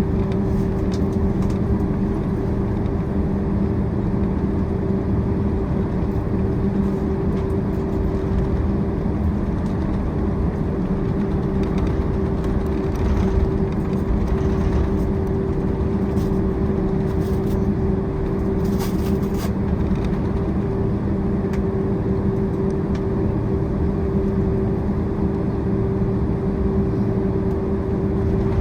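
Cabin noise of a Boeing 767-400ER taxiing: its jet engines running at low power under the steady rush of the cabin air, a constant hum with a low drone and a higher tone held steady.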